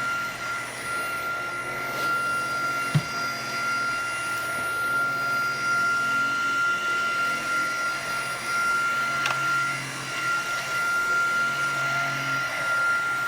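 Tineco cordless stick vacuum running steadily, a high motor whine over a lower hum. A short knock comes about three seconds in.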